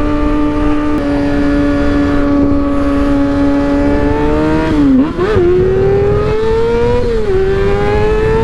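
Motorcycle engine running at a steady high pitch while riding. About five seconds in the revs dip and blip back up, then climb steadily until a drop in pitch near seven seconds as it shifts up. Wind rushes on the microphone underneath.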